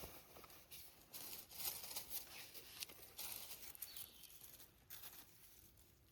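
Quiet, irregular rustling and crackling of dry forest-floor litter (leaves, moss, twigs) being disturbed, coming in uneven bursts with a few sharp snaps, dying away about five seconds in.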